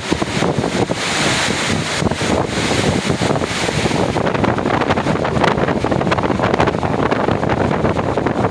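Strong gusting wind buffeting the microphone, a loud, continuous rushing with frequent rattles and knocks mixed in.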